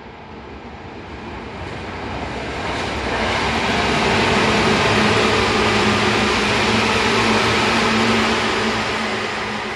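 Seibu 10000 series limited-express train passing on a far track, its wheels rumbling on the rails over a steady hum. The sound builds for about four seconds, holds at its loudest while the cars go by, and fades near the end as the train draws away.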